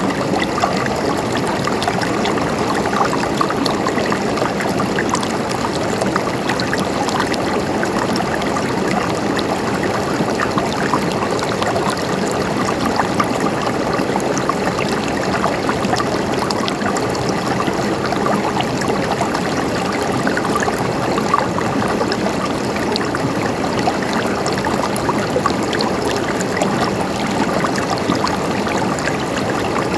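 Flowing stream water gurgling and splashing steadily, with many small splashes.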